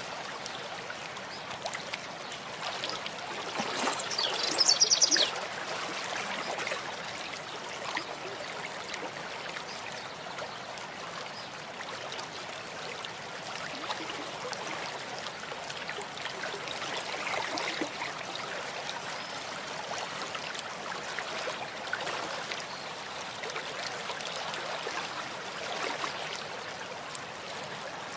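Stream water flowing and trickling steadily, with a short high-pitched trill about five seconds in.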